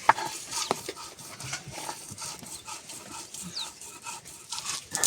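Chilli and garlic being ground by hand on a flat grinding stone, in a steady rhythm of rasping strokes, with a sharp knock of stone at the start.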